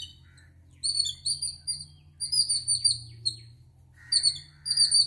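A small songbird chirping in repeated quick runs of sharp, high notes, several bouts with short pauses between them, over a steady low hum.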